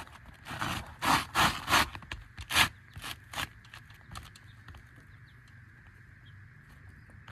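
Roof shingle scraping against the shingles around it as it is slid and worked under the course above, in about six short strokes over the first three and a half seconds; after that only a faint steady background.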